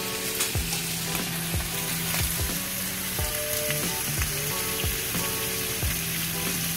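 Raw chicken pieces sizzling in hot sesame oil and ginger in a nonstick wok, stirred with a metal spoon that scrapes and taps the pan now and then. Background music plays underneath.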